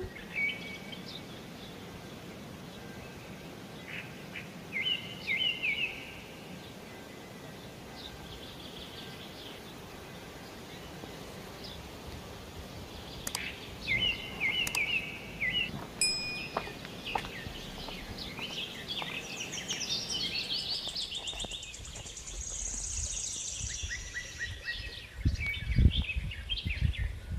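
Small birds chirping in short runs of quick notes over a steady outdoor hiss, with a few low thuds near the end.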